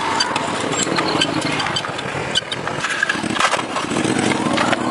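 An engine running steadily, with scattered clicks and knocks throughout.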